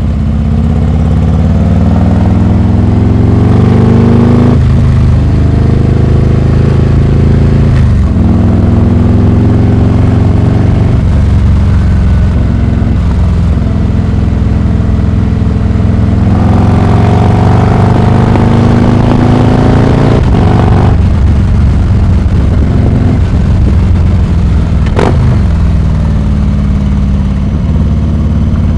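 Harley-Davidson Heritage Classic 114's Milwaukee-Eight V-twin running through a Rinehart exhaust, the bike accelerating through the gears: the engine note climbs, drops sharply at each shift, and climbs again several times.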